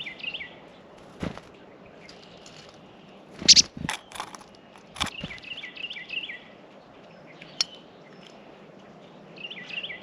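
A songbird singing a short phrase of quick chirping notes, repeated about five seconds later, with scattered sharp taps and knocks at the feeder. The loudest taps come in a cluster about three and a half seconds in.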